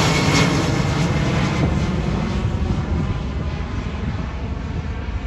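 Jet engine noise of a departing Boeing 737 MAX 9 airliner, fading steadily as it climbs away, its high hiss dying out first and leaving a low rumble.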